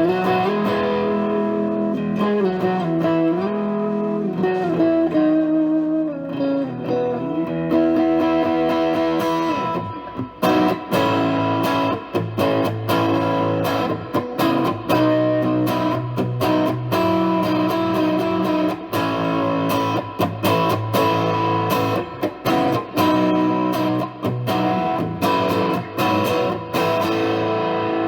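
Electric guitar played through a Silverhorse Klon-style overdrive pedal into a Boss Katana amp. It starts with sustained single notes and bends for about ten seconds, then moves to rhythmic strummed chords, the tone cleaning up when picked lightly.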